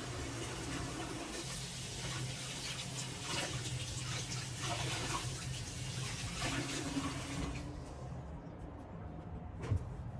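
Kitchen tap running into the sink, shut off about seven seconds in, over a steady low hum; a single knock near the end.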